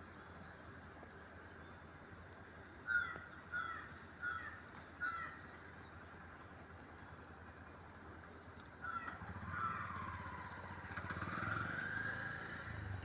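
A bird gives four short, harsh calls in quick succession over a faint steady background. About nine seconds in, a louder sound begins: a low rumble with a wavering tone that rises and falls.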